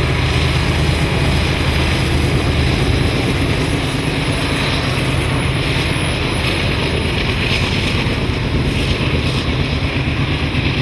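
Train on the move: a steady, loud diesel locomotive drone with continuous rolling rumble.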